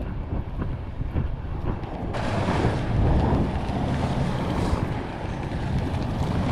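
Wind buffeting the microphone as a dense low rumble, with a louder hiss that cuts in about two seconds in.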